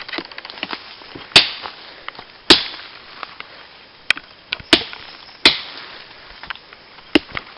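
A machete chopping into a green plant stalk to get at the water inside: about seven sharp blows, two hard strikes near the start being the loudest, then lighter cuts.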